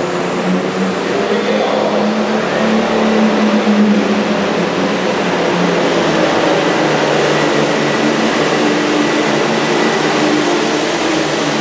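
Super Farm pulling tractor's turbocharged diesel engine running loud at full throttle under load, with a high turbo whistle climbing over the first few seconds and then holding steady.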